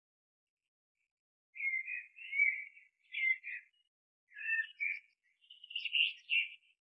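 Birds chirping and singing in a series of short phrases, starting about a second and a half in.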